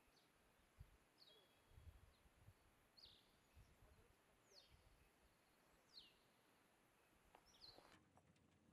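Faint bird calls: a short, high note sweeping downward, repeated about every one and a half seconds over a soft outdoor hiss, with a few soft low thuds.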